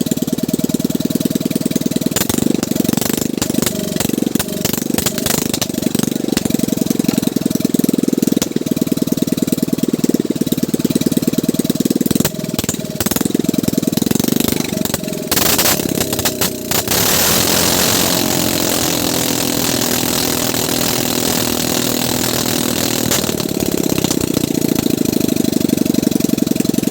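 Small boat engine running with a rapid, steady firing beat. About two-thirds of the way through, the sound turns to a smoother hiss with a steady hum for several seconds, then the firing beat comes back.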